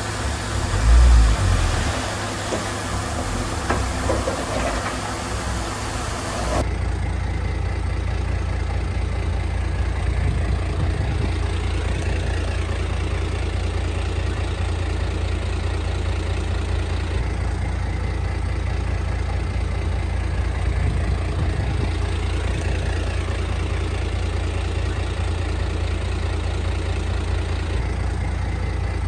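Heavy diesel earthmoving machinery running, with a loud thump about a second in. About six and a half seconds in the sound changes abruptly to a steadier, duller low engine rumble.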